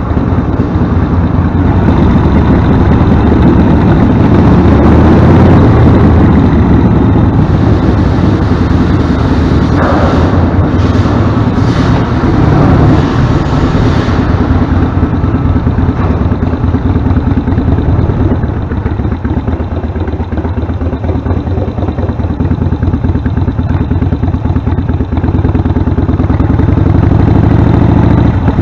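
Harley-Davidson Sportster V-twin running through Vance & Hines Short Shots Staggered exhaust pipes, recorded from a handlebar-mounted camera. The revs rise near the end.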